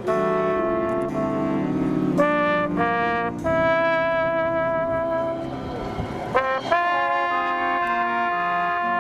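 A marching brass band with trumpets and trombones playing a Christmas ballad medley. It moves in long held notes and chords that change every second or so.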